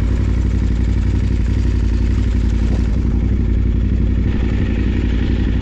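Adventure motorcycle's parallel-twin engine running steadily while riding, with a steady hiss over it.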